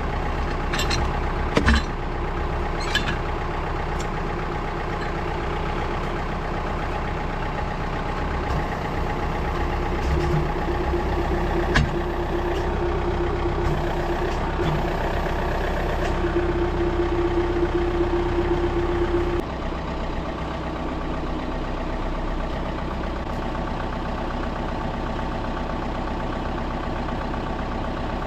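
Engine running steadily, with a few sharp knocks in the first few seconds. Partway through a steady tone rises out of it and cuts off about two-thirds of the way in, after which the engine runs on slightly quieter.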